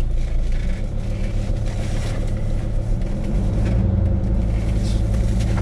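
Van engine and road noise: a steady low rumble of a vehicle under way.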